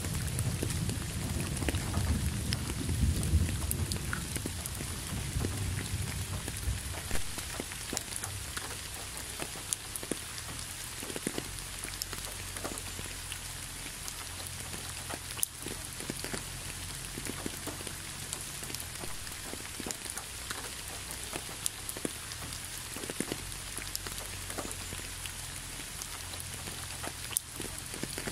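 Gentle rain falling onto a leafy road: a steady hiss with many separate drops ticking. A low rumble of thunder fades out over the first several seconds.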